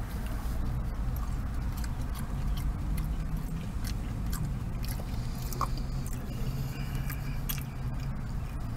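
A person chewing a mouthful of soft whole potato close to the microphone, with many small mouth clicks and smacks, over a steady low hum.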